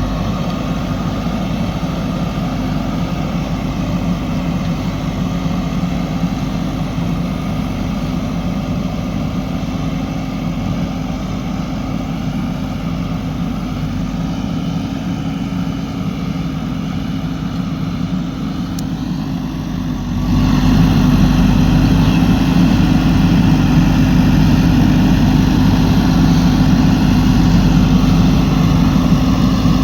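JCB 3DX backhoe loader's diesel engine running steadily at low revs, then picking up to higher revs and louder about two-thirds of the way through, as when the machine is put to work.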